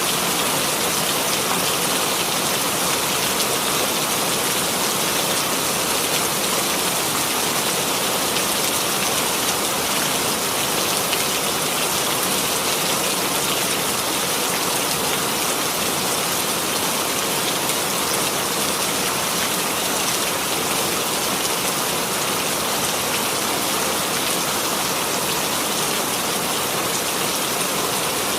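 Steady, even rainfall sound effect: rain falling on a surface with no let-up.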